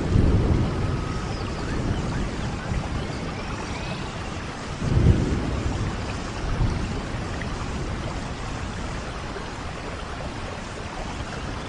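Steady rain with low rumbles of thunder; one rumble swells at the start and a louder one comes about five seconds in, then fades back under the rain.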